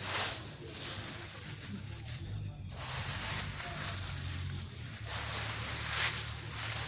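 Swept dry leaves and rubbish rustling as they are put into a container, in several bursts about a second long each.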